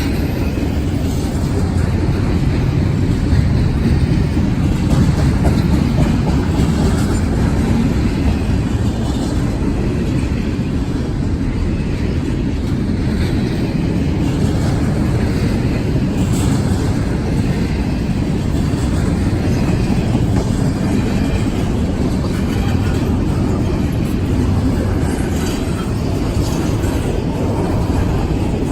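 CSX intermodal freight train's cars rolling past on the track, a steady rumble.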